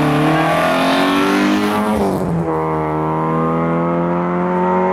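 Racing car engine accelerating hard up the hill-climb course. Its note rises, breaks briefly about two seconds in at a gear change, then holds high and climbs slowly.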